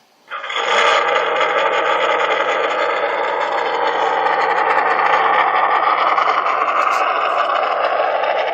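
An RC monster truck's electronic engine-sound module, played through its small speaker, switches on about a quarter second in and plays a steady idling engine sound.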